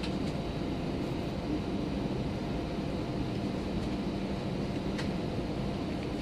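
Steady cabin noise inside an Airbus A319 airliner: the engines running with a low rumble and a faint steady hum. There is a faint click about five seconds in.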